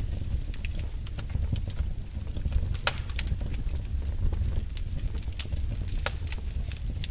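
Wood fire burning in a fireplace: irregular crackles and a few sharper pops over a steady low rumble of the flames.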